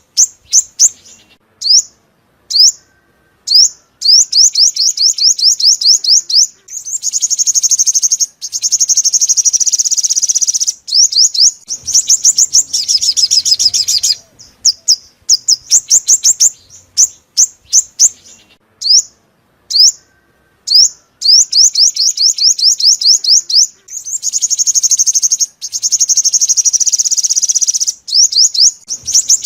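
Sunbird song: rapid, high-pitched trills of quick sweeping notes, delivered in bursts of a few seconds with short pauses between them, in a pattern that repeats.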